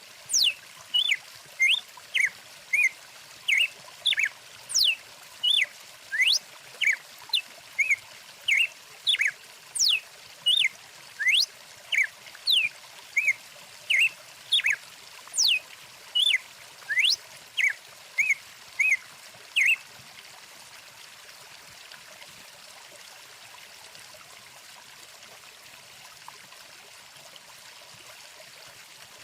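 A bird chirping over and over, with short chirps and quick sweeping whistles a bit under two a second, over a steady flowing stream. The chirping stops about two-thirds of the way through, leaving only the water.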